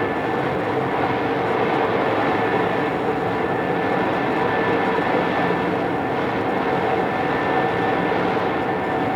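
Odakyu 2600 series electric train running at speed, heard from inside the car: a steady rumble of wheels and running gear, with a few faint steady tones over it. The recording was made on cassette tape.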